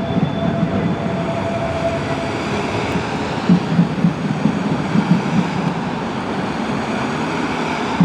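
Steady city street traffic noise from passing vehicles, with a run of low, irregular thumps starting about three and a half seconds in and a faint steady tone in the first two seconds.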